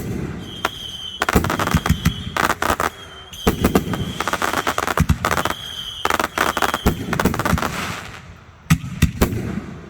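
Fireworks going off in rapid volleys: dense sharp reports and crackling, with a short high whistle sounding in several of the volleys and a brief lull about eight seconds in before a few more reports.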